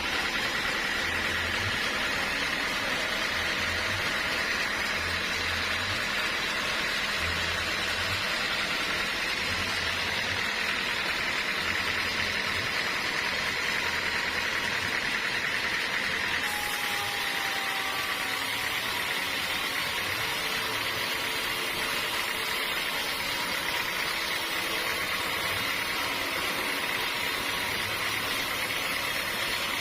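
Sawmill machinery running steadily: a motor's low, uneven hum under a steady high whine and a noisy din. The sound shifts slightly about halfway through.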